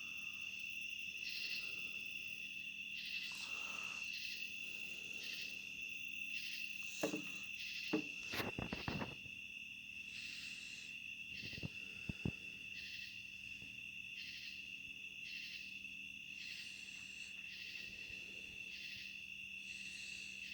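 Night insects: crickets trilling steadily and high, with another insect calling in a regular pulse a bit more than once a second. A few brief knocks and rustles near the middle.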